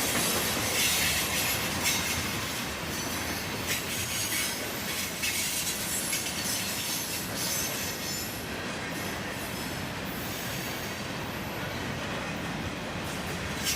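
Norfolk Southern freight train cars rolling past at speed on a curve, their steel wheels squealing against the rails over a rumbling clickety-clack. The high squeal eases off about eight seconds in.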